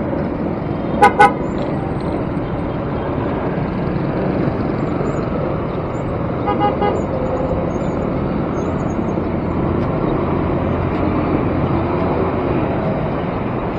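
Steady city traffic noise. A vehicle horn gives two short beeps about a second in, and another horn honks briefly and more faintly about six and a half seconds in.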